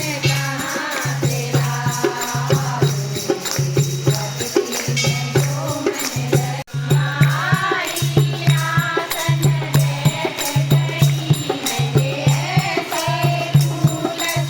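Devotional bhajan sung by a group of voices, over a steady drum beat and jingling hand percussion keeping time. The sound drops out for a split second about halfway through.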